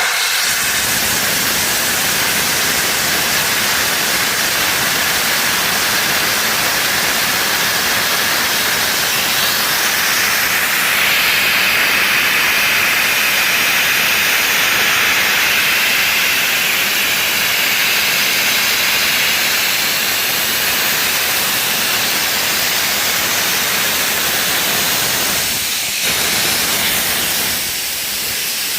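Steam locomotive 34046 Braunton, a rebuilt Bulleid West Country class Pacific, letting off steam in a loud, continuous hiss. The hiss gets sharper from about ten seconds in and eases briefly near the end.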